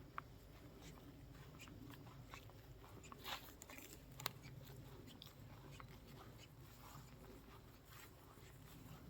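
Faint wind rumble on the microphone, with scattered small crackles and clicks. There is a sharp click just after the start, a brief crunch about three seconds in, and another sharp click a second later.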